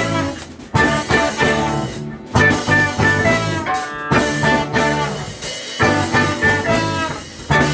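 Live band playing an upbeat instrumental passage: guitar with drum kit, with brief breaks in the rhythm.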